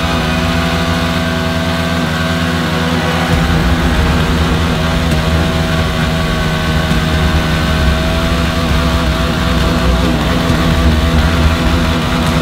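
Two single-cylinder motorcycle engines, a Yamaha R15 and a Bajaj Pulsar 220, held at high revs under load as the bikes strain against each other in a rope tug of war. The engine notes stay steady and waver slightly. The low rumble grows louder about three seconds in.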